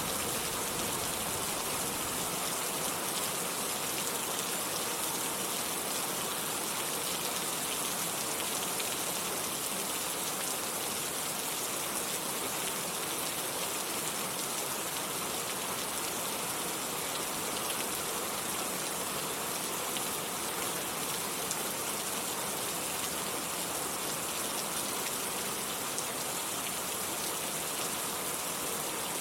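Steady rain falling, an even hiss of many drops. The low rumble of a thunderclap that has just passed fades away in the first couple of seconds.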